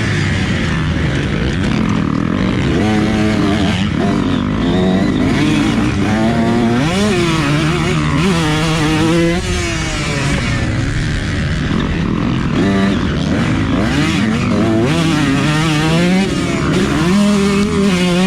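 Motocross bike engine revving hard and backing off over and over as the rider works the throttle and gears around the track, its pitch climbing and dropping many times, over a steady rush of noise.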